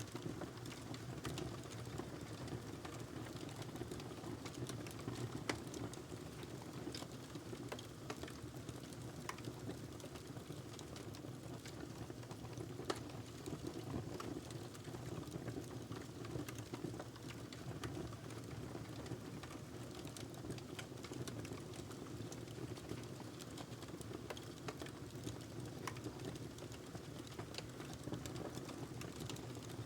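Wood fire burning in a fireplace: a steady low rush of flames with irregular small crackles and pops from the burning log.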